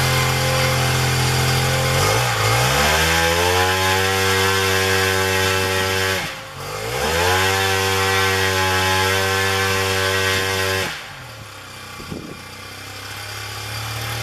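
Zenoah GT80 twin-cylinder two-stroke engine turning a propeller, run up from a steady low speed to full throttle about two seconds in, chopped back briefly around six seconds, run up to full throttle again, then throttled back to a much quieter level about eleven seconds in.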